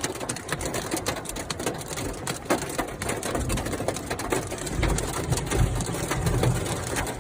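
Hailstones pelting a hard surface in a dense, irregular clatter of many small hits, over a low rumble that swells about five seconds in.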